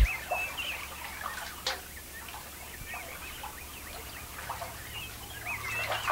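Small birds chirping in short, scattered calls, with a single sharp click about a second and a half in.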